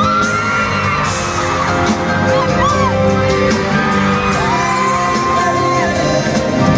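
Pop music from a live stage performance: an instrumental stretch with a steady beat and long, high sliding notes over it.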